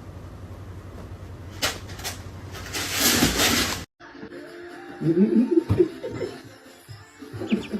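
A steady hum with two sharp knocks and a noisy rush lasting about a second. After an abrupt cut, a person laughs in short chuckling bursts.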